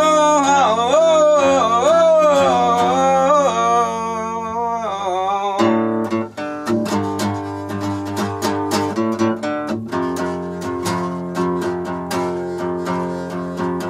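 Acoustic guitar strummed under a long, wavering sung note for about the first five seconds; then the voice stops and the guitar strumming goes on alone.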